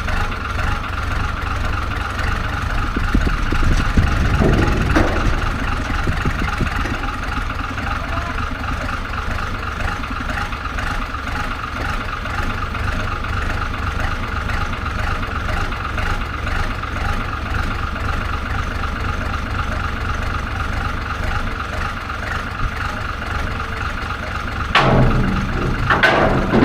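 A vehicle's engine runs steadily at low revs while the vehicle is maneuvered, and the level rises briefly near the end.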